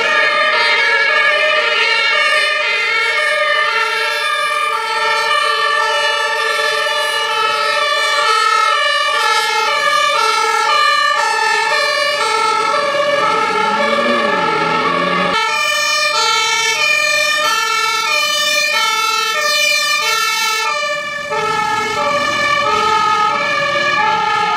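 Two-tone fire engine siren alternating steadily between a high and a low note, switching roughly twice a second. About fifteen seconds in the sound changes abruptly, as if cut to another recording, and the siren carries on.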